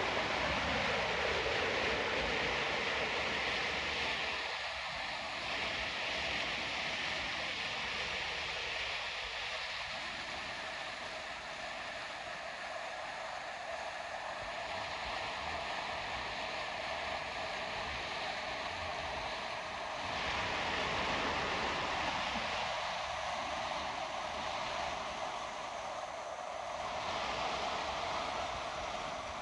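River water rushing steadily over rocks, a constant hiss that swells slightly a few times.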